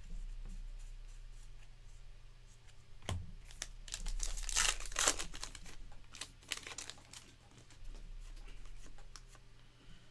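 A trading-card pack's wrapper crinkling and tearing as it is opened, in a run of sharp crackles that is loudest about four to five seconds in.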